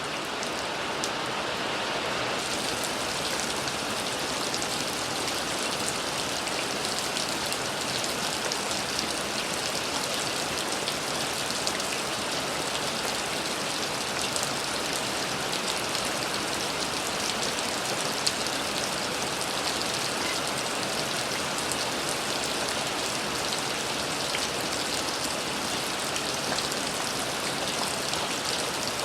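Steady rain falling, a dense even hiss with the patter of individual drops hitting a surface, growing a little fuller in the first couple of seconds.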